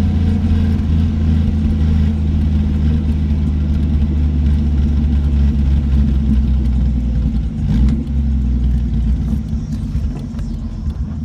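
Car engine running at a steady pitch, with a brief change in level about eight seconds in.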